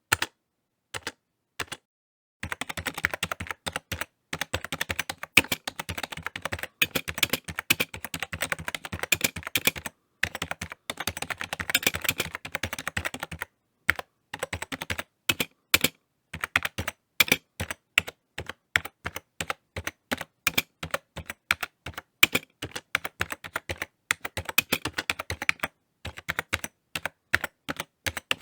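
Typing on a computer keyboard: a few scattered keystrokes, then a fast, dense run of typing for about eleven seconds, then keystrokes coming more separately with short pauses.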